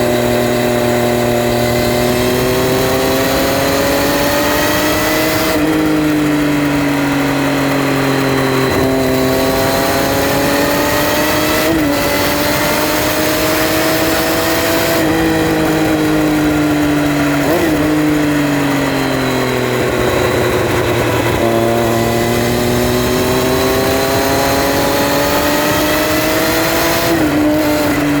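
Triumph Street Triple R's 675 cc inline three-cylinder engine heard while riding. Its pitch climbs and eases off several times as the bike pulls through the gears and slows, with a hiss of rushing air throughout.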